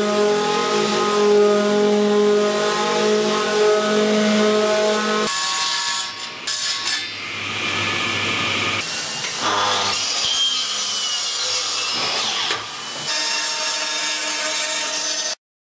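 Woodworking power tools cutting and sanding wood in a series of short clips. The sound changes abruptly every few seconds, starting with a steady motor hum and moving to harsher rasping noise, then cuts to silence just before the end.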